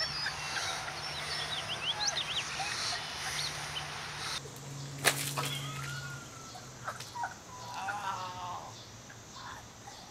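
Birds chirping and calling over outdoor background noise, with a sharp click about five seconds in and a low steady hum underneath.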